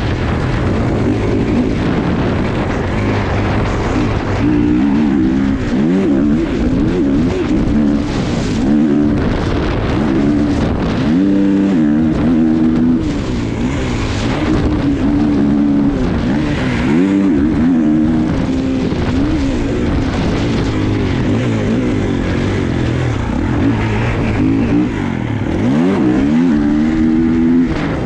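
Dirt bike engine revving up and down repeatedly as the bike is ridden, its pitch rising and falling through gear changes and throttle blips.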